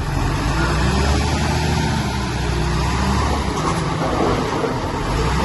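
Heavy earthmoving machine's diesel engine running steadily, a low, even drone with a rough mechanical noise over it.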